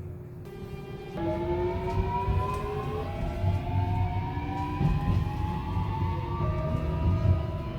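Subway train's traction motors whining as it accelerates: several tones start about a second in and climb steadily in pitch, over a low rumble.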